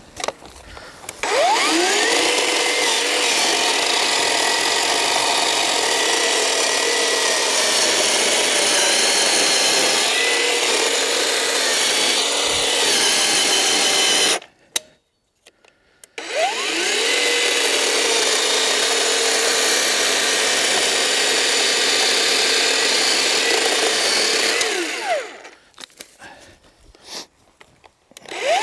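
Black & Decker GKC3630L20 36 V cordless electric chainsaw cutting through a log. Each cut opens with the motor whining up to speed and then runs steadily: one cut of about thirteen seconds, a brief stop, and a second of about nine seconds. Near the end come a few short bursts, and another cut starts just as it ends.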